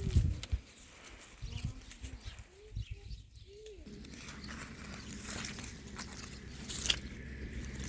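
A bird calling in short, low, arched coos during the first four seconds, over a low rumble, with a few sharp clicks later on.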